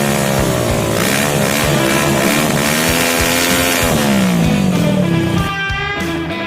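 Suzuki Satria FU's 150 cc single-cylinder four-stroke engine revving up and down through an aftermarket HNR racing exhaust, its pitch falling away about four to five seconds in, with music playing underneath.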